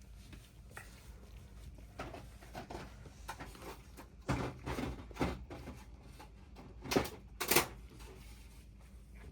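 A series of small clicks and knocks at irregular intervals, the two loudest about seven and seven and a half seconds in.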